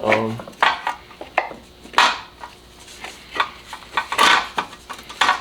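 Hand tools and engine parts being handled: a string of separate sharp clicks and metallic clinks, with a longer scraping rattle about four seconds in.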